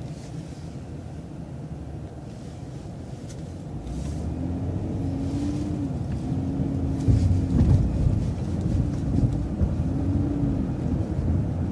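Low rumble of a city transit bus's engine and road noise, growing louder about four seconds in and again a few seconds later. A humming whine comes and goes several times over it.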